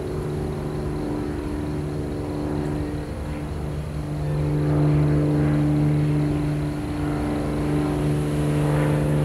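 A motor vehicle's engine running at a steady pitch, a low even hum that grows louder about four seconds in.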